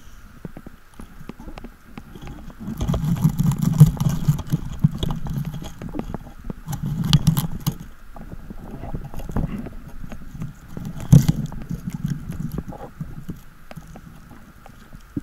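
Underwater sound picked up by a freediver's camera: muffled rushes of water from the diver's movement in irregular surges, with scattered clicks and a sharp knock about 11 seconds in.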